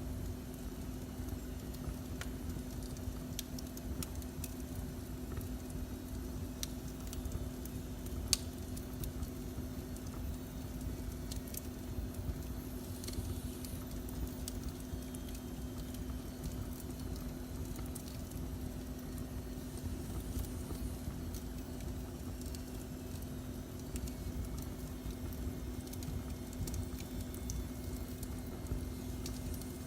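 Fire burning in a fireplace, crackling with sparse pops and snaps, the sharpest about eight seconds in, over a steady low rumble and a constant hum.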